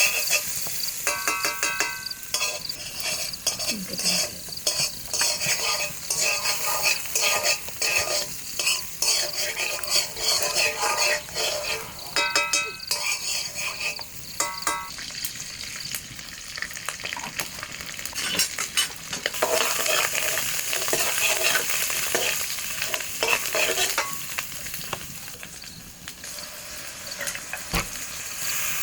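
Food frying in a pan, stirred with a utensil that scrapes and knocks against it, a few of the knocks ringing out in the first half. From about two-thirds of the way in the stirring thins and the sizzle settles into a steadier hiss.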